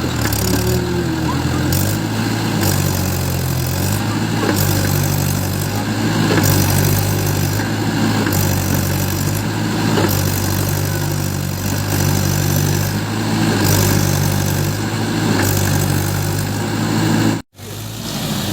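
Mahindra 575 DI tractor's diesel engine running steadily, its note rising and falling slightly about once a second, cutting out for an instant near the end.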